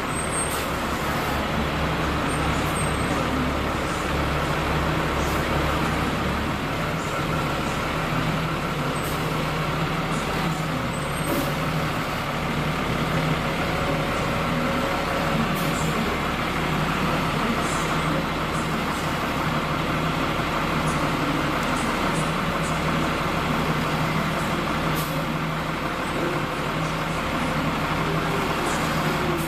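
Large diesel engine of heavy mining equipment running steadily, with a deep low rumble that drops away about seven seconds in. A few short, high clicks or hisses sound over it.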